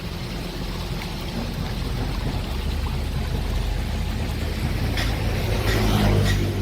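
Heavy excavator's diesel engine running under load, getting gradually louder, with a few metallic clanks about five to six seconds in.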